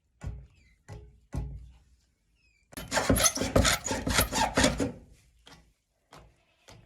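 Three sharp knocks, then about two seconds of rapid scraping and rubbing, like something being rasped or scrubbed on wood, trailing off into a few light clicks.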